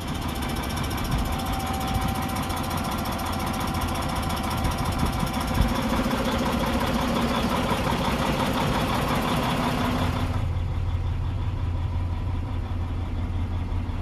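Tractor's diesel engine running steadily. About ten seconds in the sound changes abruptly: the higher sounds drop away and a deeper rumble remains.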